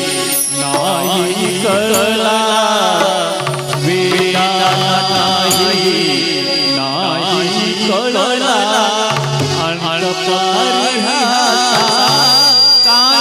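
Marathi devotional bhajan: a solo voice singing a heavily ornamented, wavering melody over held accompaniment notes and tabla.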